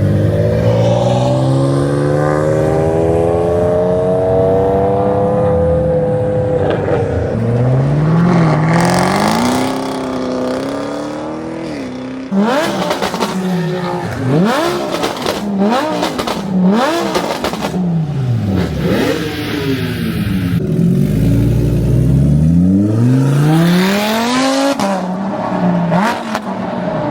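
Car engine revving hard, again and again, its pitch climbing and falling. In the middle come a run of quick rev blips with sharp exhaust cracks.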